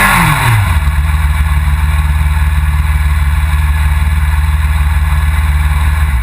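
Suzuki GSX-R1000 superbike's inline-four engine. Its revs drop away in the first half second, then it sits at a steady, loud idle.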